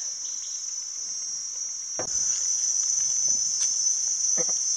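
Jungle insect chorus, a steady high shrill buzz that grows louder about two seconds in, with a couple of short soft knocks.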